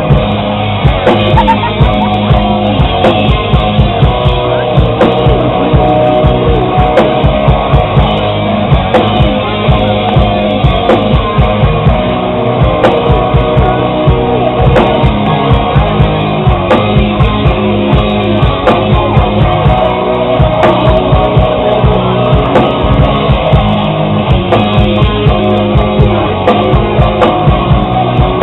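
Rock band playing live: electric guitar, bass and a drum kit keeping a steady driving beat, with some singing.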